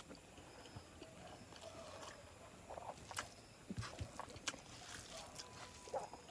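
Faint, close-miked chewing of chicken curry and rice: wet mouth smacks and sharp lip and tongue clicks at an uneven pace.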